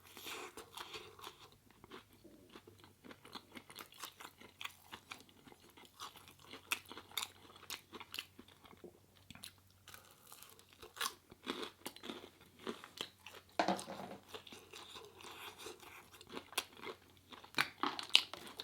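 Close-miked chewing and crunching of plant-based food, with irregular mouth clicks as it is chewed; a louder crunch comes about 14 seconds in.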